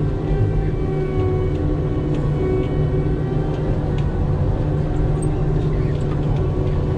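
Engine running steadily at constant speed: a low drone with an unchanging pitch and a few faint ticks and rattles over it.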